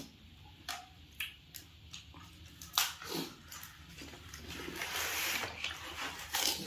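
Panipuri being eaten close up: wet chewing and squishing of the water-filled puris, with a few sharp crunches in the first half and a longer, louder noisy stretch near the end.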